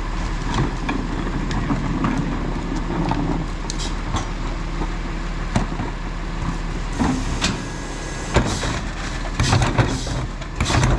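Autocar ACX rear-loader garbage truck running steadily, with a series of sharp knocks and clatters that grow denser in the last few seconds.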